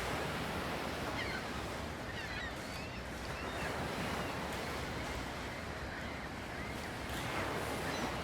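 Ocean waves washing steadily as background ambience, with faint bird calls here and there.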